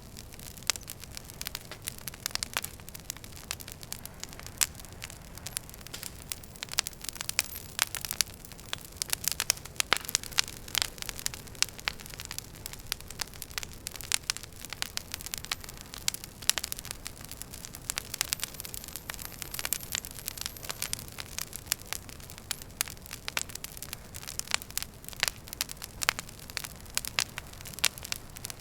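Wood fire crackling in a fireplace: frequent sharp pops and snaps of varying loudness over a low, steady rumble of burning.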